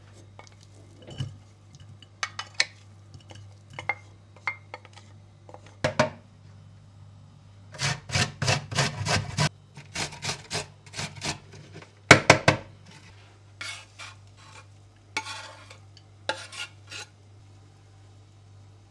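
Dishes and cutlery clinking and knocking as they are handled, over a faint low hum. About eight seconds in comes a quick run of clinks, and a few seconds later two sharp clacks.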